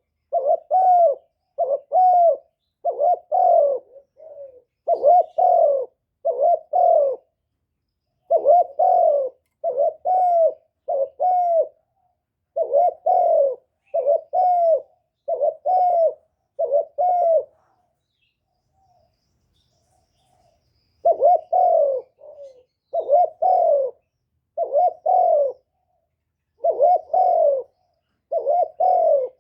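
Spotted dove cooing: a long series of short, low coos in runs of several notes, with a gap of a few seconds just past halfway.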